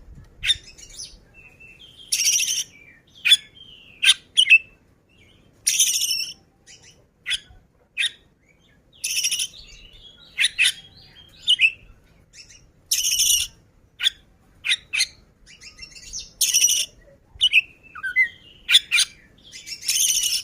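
Oriental magpie-robin (kacer) singing vigorously. Harsh rasping notes come about every three and a half seconds, with short sharp whistled notes and clicks in between.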